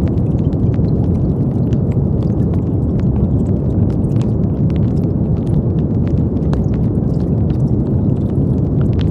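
Steady brown noise: a deep, even rushing hiss weighted toward the low end, with faint scattered clicks.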